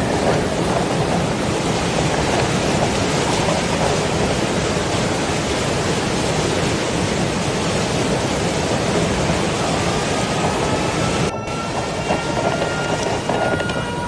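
Heavy rain pouring steadily under thunder rumble. The sound cuts out briefly about eleven seconds in. In the last few seconds a faint held tone with overtones, slightly rising, sounds under the rain.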